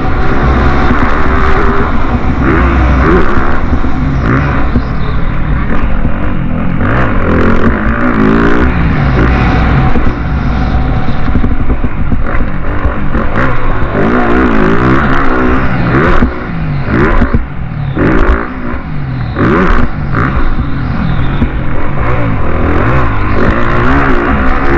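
Motocross bike engine revving up and down over and over, loud throughout, with short drops in revs and some sharp clicks in between.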